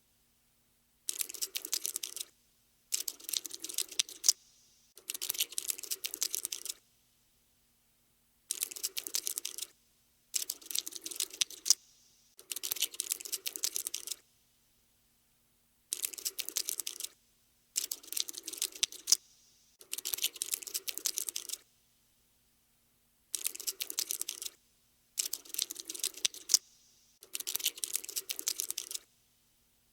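Scuttling sound effect for a crawling cockroach: bursts of rapid, dry clicking, each lasting one to two seconds, broken by short silences, about a dozen bursts in all.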